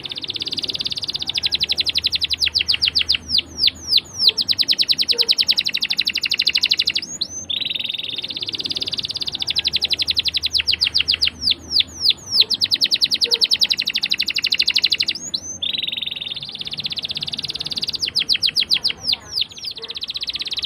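Domestic canary singing long rolling trills: rapid runs of repeated high notes that slow into separate chirps at the end of each phrase, three phrases with short breaks about 7 and 15 seconds in.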